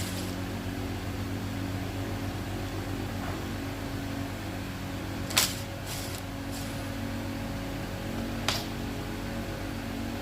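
Steady mechanical hum, with two sharp clicks about five and eight and a half seconds in.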